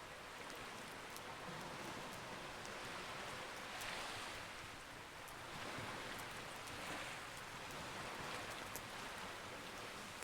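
Campfire crackling with sparse sharp pops over a steady wash of sea waves that swells and ebbs every couple of seconds.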